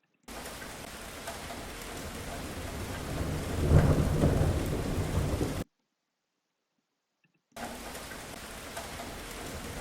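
Recording of steady rain with a low rolling thunder rumble swelling in about three and a half seconds in. It cuts off dead about five and a half seconds in and starts again two seconds later as playback of the clip is restarted.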